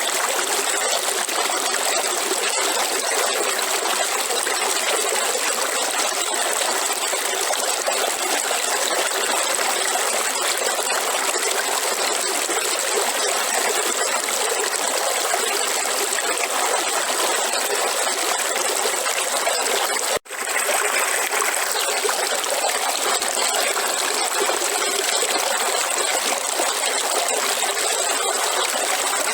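River water flowing with a steady rushing noise. It drops out for an instant about twenty seconds in, then resumes unchanged.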